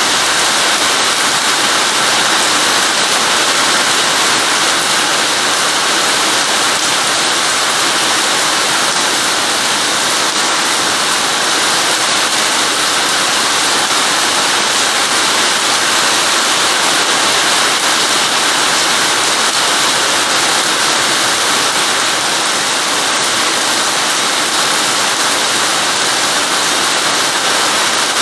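Steady, heavy rain falling: a continuous even hiss of rain with faint scattered drop ticks.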